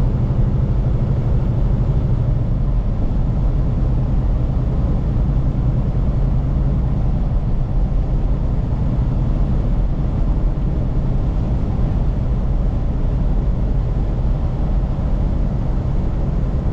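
Steady, unchanging low drone of a moving vehicle's engine with road rumble.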